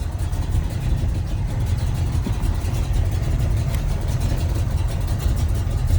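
1979 Ford F-150's engine, with a Holley four-barrel double-pumper carburetor and headers, idling with a steady low rumble.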